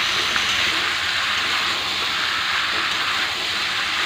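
Chopped ridge gourd sizzling steadily in hot oil in a kadai, with the tomatoes and spices it has just been added to.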